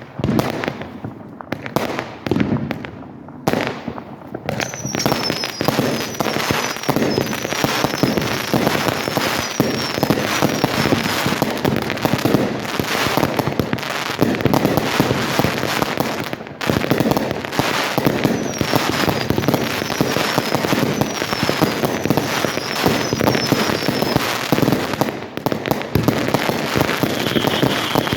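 Fireworks going off: a few separate bangs at first, then from about four seconds in a dense, continuous crackle of rapid pops, with runs of short falling whistles.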